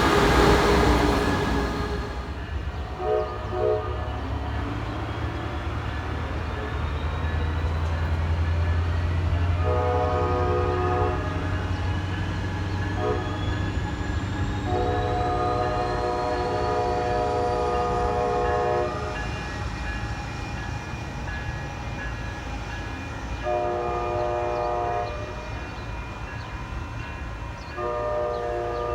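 Train horn sounding a multi-note chord in repeated blasts of different lengths, the longest about four seconds, over the steady low rumble of a train. A loud rush of train noise dies away over the first couple of seconds.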